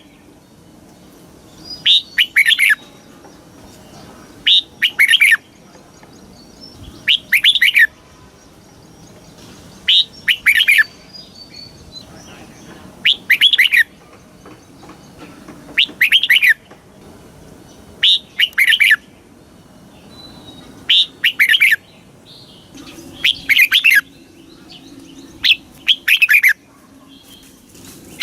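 Red-whiskered bulbul singing: short, bright whistled phrases of a few quick falling notes, repeated about every two and a half seconds.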